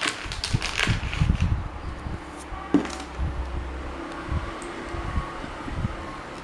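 Handling noises from work on parts: a run of clicks and knocks with low thuds, busiest in the first half, with one sharp click about three seconds in.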